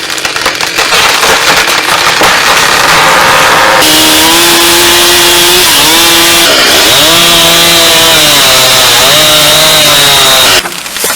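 Chainsaw running flat out and cutting through wood. After a noisy cutting stretch, a steady high engine note comes to the fore, dips sharply in pitch once about halfway, then recovers. The sound cuts off suddenly near the end.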